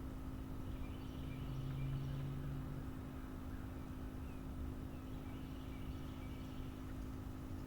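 Rural outdoor ambience: a steady low rumble and hum, swelling briefly about a second in, with faint high-pitched animal calls in two short spells.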